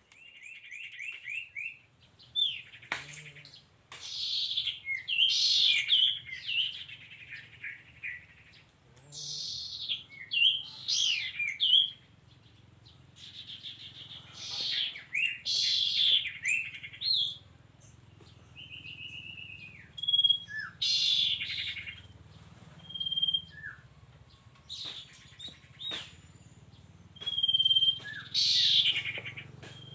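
Sirtu bird calls: bursts of high chirps, quick trills and short whistled notes, coming every second or two, used as the lure that draws more sirtu to a glue trap.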